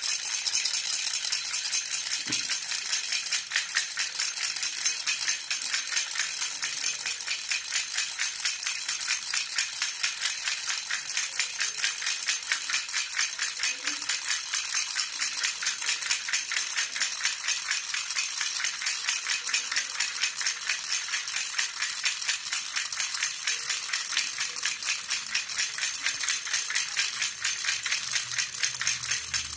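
Jhunjhuna baby rattle shaken quickly and without a break, a steady stream of high, fine jingling clicks.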